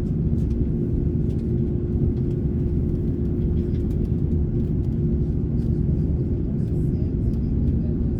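Airbus A330neo cabin noise: a steady, even low rumble with a constant hum from the aircraft on the ground, and a few faint ticks over it.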